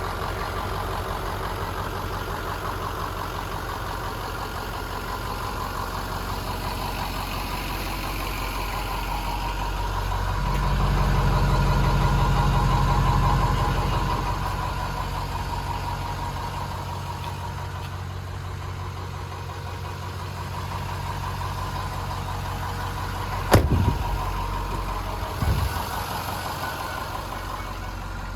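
2006 Ford F-250's 6.0-litre Power Stroke V8 turbodiesel idling steadily, growing louder for about three seconds near the middle. Two sharp knocks come near the end.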